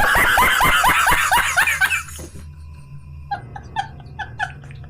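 A burst of loud laughter, a fast run of falling 'ha' sounds for about two seconds, then quieter, shorter giggles at about four a second.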